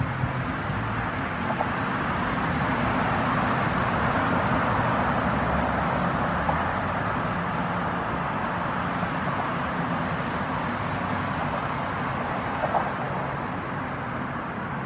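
Steady road traffic noise from the surrounding streets, swelling slowly and easing off again as vehicles pass.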